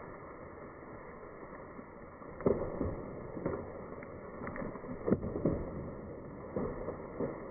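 A series of irregular knocks and thuds, starting a little over two seconds in, over a steady background hiss.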